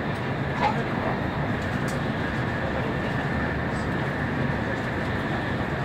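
Shinkansen bullet train running along the line, heard from inside the passenger car: a steady rumble of wheels and running noise, with one brief click under a second in.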